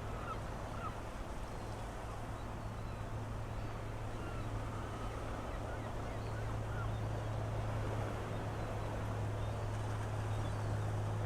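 Seaside ambience: a steady wash of wind and water noise under a steady low drone, with a few faint short bird calls.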